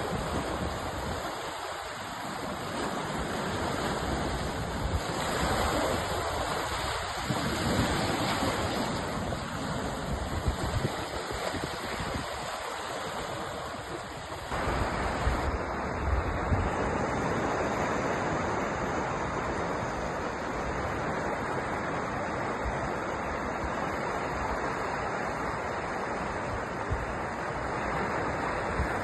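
Sea waves breaking and washing in a continuous surf, swelling and ebbing every few seconds. About halfway through, the sound changes abruptly to a steadier, denser rush.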